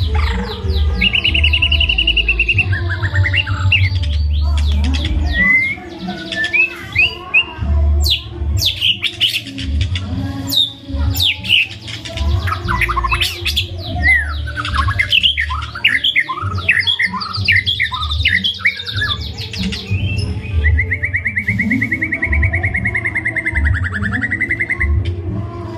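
White-rumped shama (murai batu) singing a long, varied song of rapid trills, whistles and quick sweeps, rich in imitations of other birds. Near the end it holds one long, even trill. A steady low rumble runs underneath.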